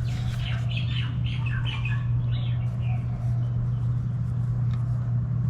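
Birds calling outdoors, a quick run of short chirps and squawks over the first couple of seconds and a few fainter ones later, over a steady low hum.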